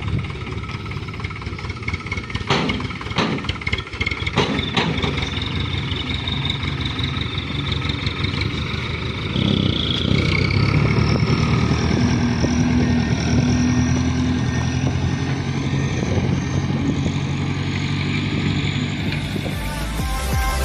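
Diesel engine of a heavily loaded Hino Dutro dump truck running, with a few clunks about three seconds in. About halfway through, the engine note grows louder and heavier and its pitch creeps slowly up as the truck works under load.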